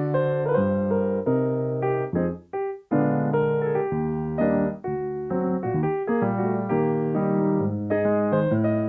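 Solo piano playing sustained chords and melody, with a short break about two and a half seconds in.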